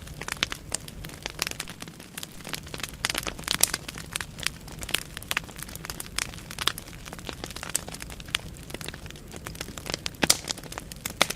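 Wood fire burning in a fireplace, logs crackling and popping in irregular sharp snaps over a low steady rumble of the flames.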